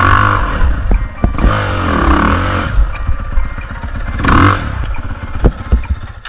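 Dirt bike engine revving, its pitch rising and falling several times, with a few sharp knocks.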